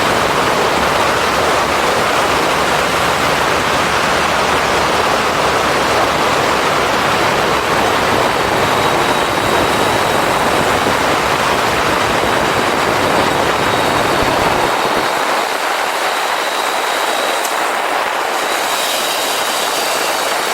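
Steady rush of wind and road noise from a moving motorcycle. The deep rumble underneath drops away about three-quarters of the way through, leaving a lighter hiss.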